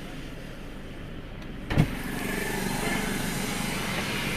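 Car running with a steady low hum, broken by one sharp thump a little under two seconds in, after which the running noise is louder.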